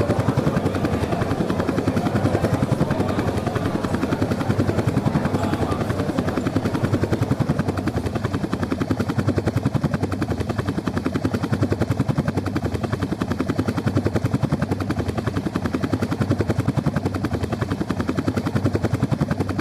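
Helicopter rotor blades beating in a fast, steady, even rhythm as a helicopter flies over.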